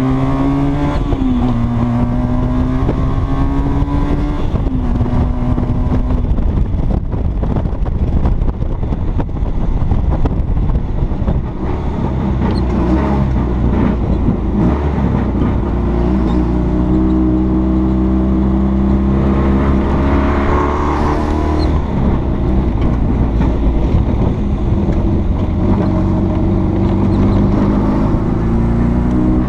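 Berkeley SE492's small three-cylinder two-stroke engine pulling the open roadster along: the engine note climbs and drops back several times in the first few seconds as it runs up through the gears. For a while in the middle the engine sinks under a rushing noise, then it climbs again, holds a steadier pitch, and rises once more near the end.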